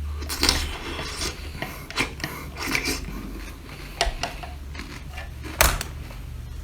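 Eating and tableware handling: a series of sharp clicks and scrapes, irregularly spaced, over a steady low hum.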